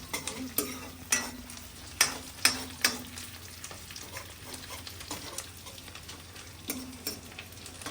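Onions frying in oil in a karai, sizzling steadily, while a metal spoon stirs them, scraping and knocking against the pan with several sharp clacks in the first three seconds and a couple more later.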